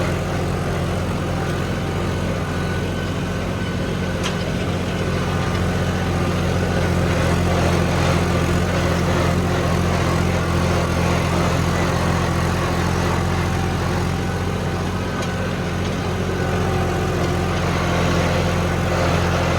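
John Deere tractor's diesel engine running steadily, with a constant low drone.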